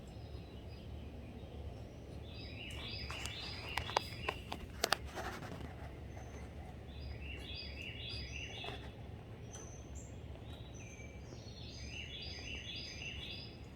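A small bird chirping in three short bursts of quick repeated notes, with a handful of sharp taps about four seconds in, over a steady low background rumble.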